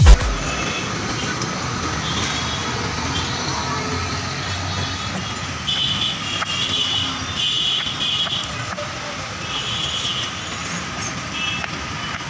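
Steady rumbling noise of a moving vehicle, with high squeals that come and go every second or so.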